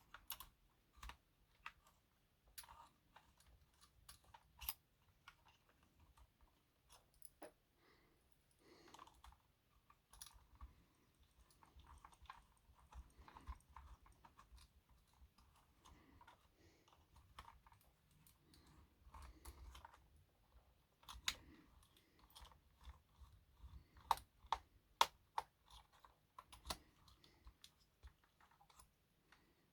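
Faint, scattered clicks and light taps of a small screwdriver and plastic parts as screws are worked on the underside of a Bachmann Class 66 model locomotive, with a busier run of sharper clicks about two-thirds of the way through.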